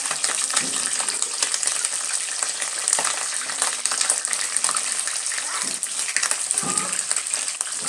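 Chicken pieces deep frying in hot oil: a steady sizzle full of fine crackles and pops.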